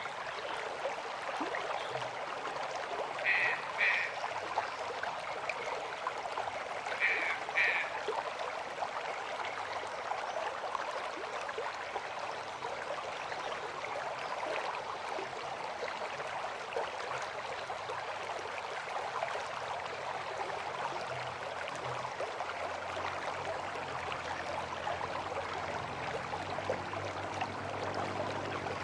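River water flowing with a steady rush. Early on, a bird or animal gives two quick pairs of short calls, one pair about three seconds in and another about seven seconds in.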